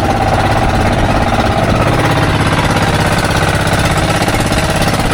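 Small fishing boat's engine running steadily under way, a fast, even knocking beat over the hiss of wind and water.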